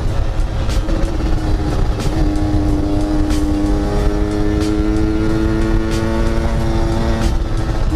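Yamaha RX-King's 135 cc two-stroke single-cylinder engine running while riding, its note held nearly steady for several seconds. The note drops near the end as the revs fall.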